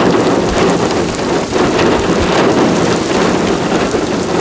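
Heavy rain falling steadily, with many sharp ticks of single drops hitting close to the microphone.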